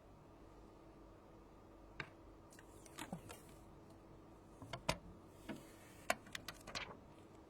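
Scattered small clicks and taps of tools and parts being handled during phone repair work, about a dozen irregular ticks over a few seconds, over a faint steady hum.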